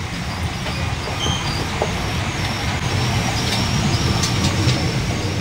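Southeastern Class 465 Networker electric multiple unit running into the platform and passing close by: a low rumble from the wheels and running gear that grows louder. Faint high squeaks come in partway through, with a few sharp clicks near the end.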